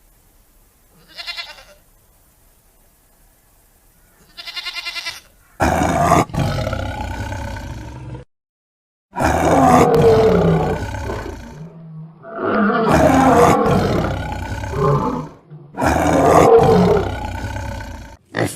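Two short animal bleats, then from about five seconds in a big cat roaring in four long, rough bouts, with an abrupt cut to silence between the first two.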